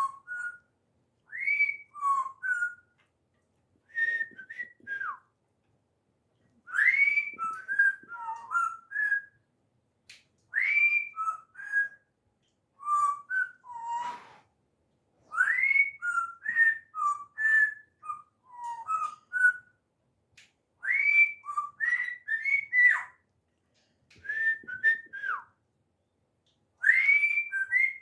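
Pet bird whistling a tune in short repeated phrases every few seconds, each opening with a rising note followed by several shorter notes.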